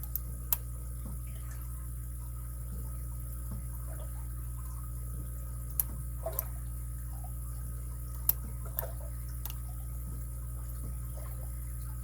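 Scattered faint, sharp clicks of a lock pick and tension tool working the pins of a padlock, about eight over the stretch, over a steady low electrical hum.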